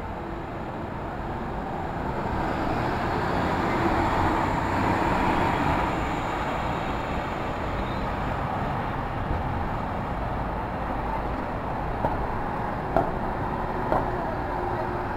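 City street traffic noise, a steady rush that swells as a vehicle passes about four to five seconds in, with a few sharp clicks near the end.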